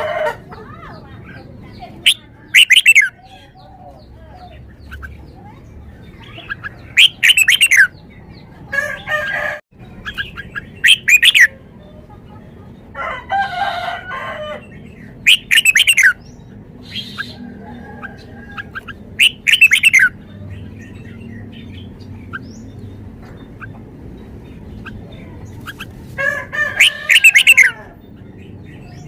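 Red-whiskered bulbul singing: short, loud, warbled song phrases repeated about eight times, a few seconds apart.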